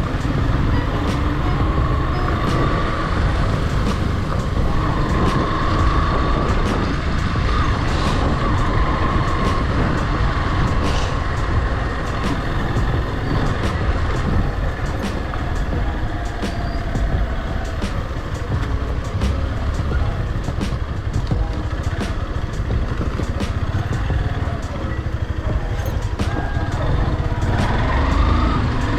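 A motorcycle running on the road while being ridden, with traffic around it. A steady heavy low rumble of wind and road noise sits under a faint engine note that rises and falls.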